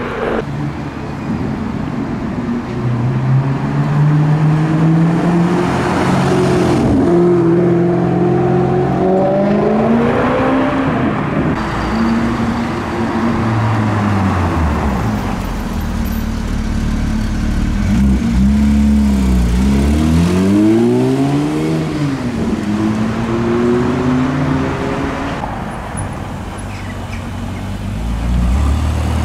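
Performance car engines, several cars in turn, running loud as they pull away and drive past. The pitch climbs under acceleration and drops back, with quick revs up and down past the middle, and a deep low rumble near the end.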